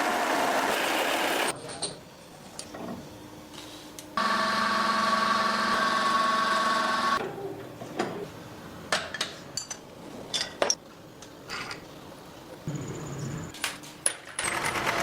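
Workshop machinery making motorcycle front sprockets: a machine runs noisily for the first second and a half, a steady motor hum with a whine follows from about four to seven seconds in, then scattered metal clanks and knocks.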